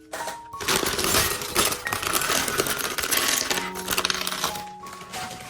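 Small plastic Lego pieces clattering as they are poured out of an opened bag onto a surface: a dense jingle of many tiny clicks that thins out near the end.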